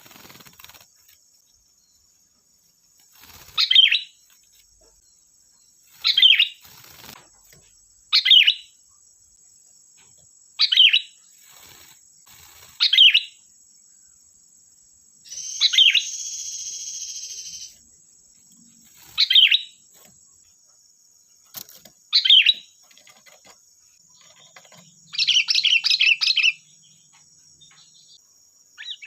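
Sooty-headed bulbul (kutilang) calling in short, loud phrases roughly every two to three seconds, with a rapid chattering run near the end. A longer buzzing sound of about two seconds comes around the middle, and a faint steady high insect drone runs underneath.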